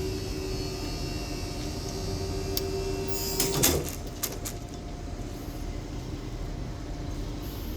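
Standing train's low rumble with a steady whine over it; about three and a half seconds in, the whine cuts off with a clunk and a few clicks.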